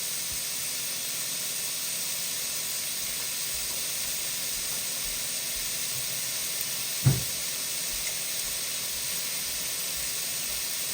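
Thin pieces of beef strip steak searing on high heat, a steady sizzle. A single sharp knock about seven seconds in.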